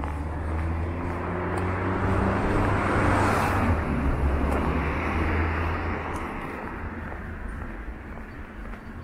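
Engine of a Saipa Pride car running at low speed close by, a steady low hum that grows loudest about three seconds in as the car comes alongside, then fades.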